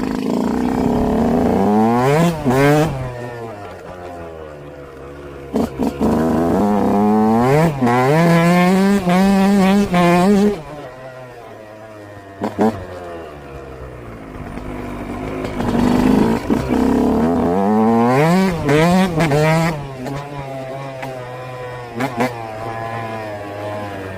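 Yamaha YZ125 single-cylinder two-stroke motocross engine being revved hard three times, its pitch climbing steeply each time. Between the bursts it falls back to a lower, quieter note.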